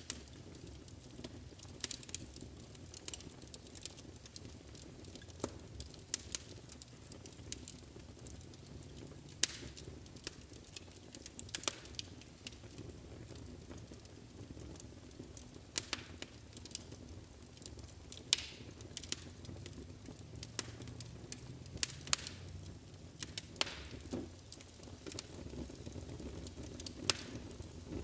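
Wood fire burning in a fireplace: irregular sharp crackles and pops, a few of them loud, over a steady low rumble of the flames.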